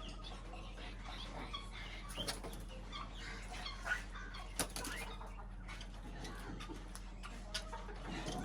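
Small cage birds at a feeder: scattered short chirps and wing flutters, with several sharp clicks, over a steady low hum.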